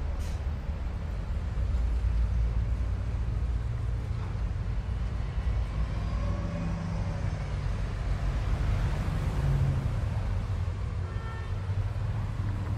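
Wind buffeting and road rumble on the camera of a moving bicycle, a steady low rumble throughout.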